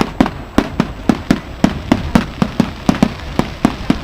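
Fireworks display: a rapid, irregular run of sharp bangs from exploding shells, about four a second, over a continuous low rumble.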